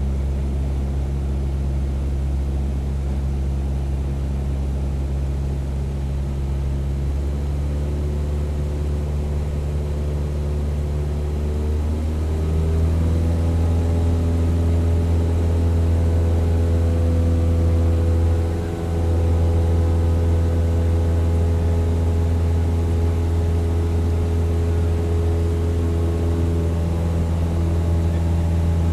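Propeller aircraft engine droning steadily in flight. Its pitch steps up a little under halfway through, and the level dips briefly about two-thirds of the way in.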